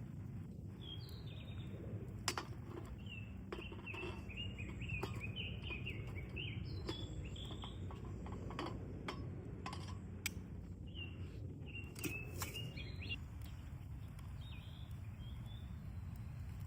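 Small birds chirping in repeated quick clusters of short high notes, over a steady low background rumble, with a few sharp clicks or cracks now and then.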